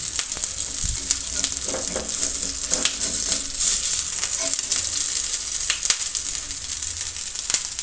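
Semolina squares shallow-frying in a little oil on a flat griddle (tawa) over a low flame: a steady, high sizzle. A few sharp clicks and scrapes come from a metal spatula as pieces are turned.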